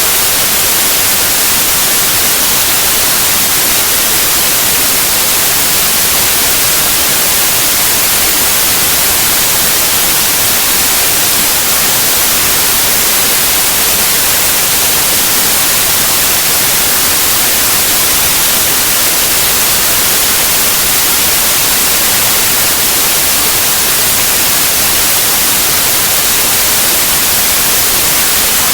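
Steady white noise: an even, unchanging hiss across all pitches, strongest in the treble.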